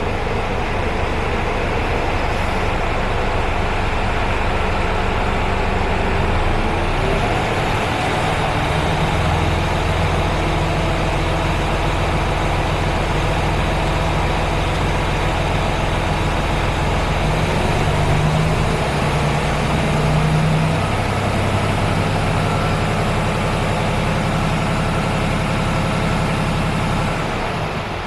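Mercedes-Benz Actros 1846 truck's 12.8-litre straight-six diesel running steadily, with its low note shifting slightly a few times.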